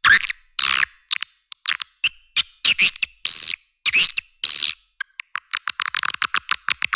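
Recorded swiftlet calls played as a lure sound: rapid high-pitched chirps and twitters, with a few longer twittering calls in the first half. From about two thirds in they give way to a fast run of short chirps, several a second.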